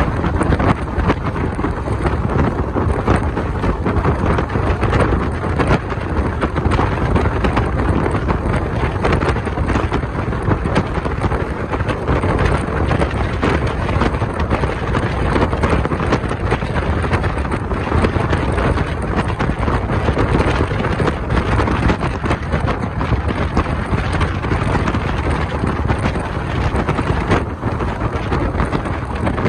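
Wind buffeting a microphone held out of a moving Indian Railways passenger coach's window, over the steady rumble and rattle of the train running along the track.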